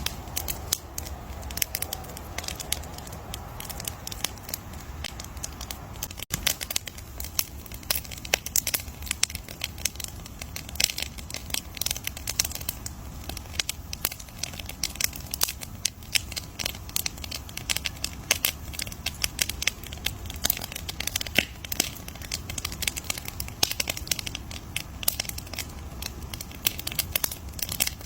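Wood campfire crackling, with dense irregular pops and snaps over a low steady rumble.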